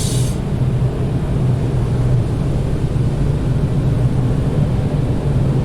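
Automatic car wash machinery running, heard from inside the car's cabin: a steady low rumbling drone, with a short hiss of spray right at the start.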